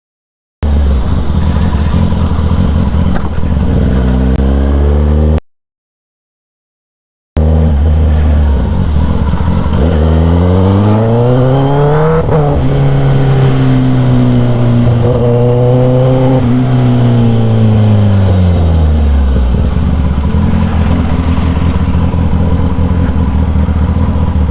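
Kawasaki ZX-10R inline-four engine running loud through an SC Project exhaust. The revs climb about ten seconds in, hold high for several seconds, then drop back near the end. The sound cuts out to silence twice in the first eight seconds.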